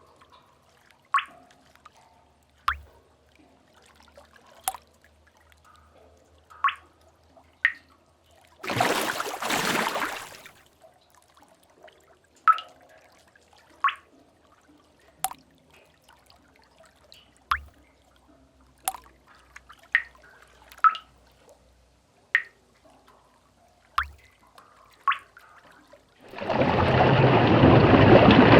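Sea cave ambience: single water drops plinking irregularly into a pool, about one every second or two. A short rush of water from a wave or splash comes about nine seconds in, and a longer, louder surge of water begins near the end.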